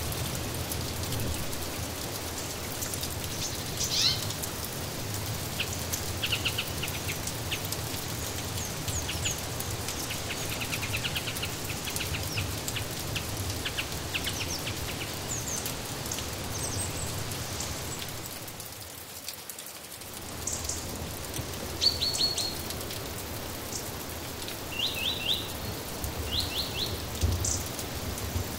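Steady rain falling, with small birds chirping and giving short quick trills on and off over it. The rain dips briefly about two-thirds of the way in.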